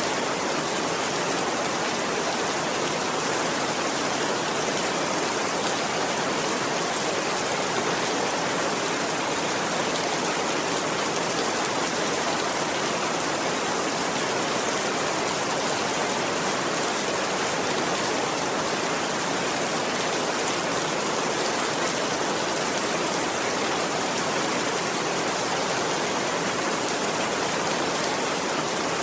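Steady rainfall: an even hiss with no change in level and no thunder.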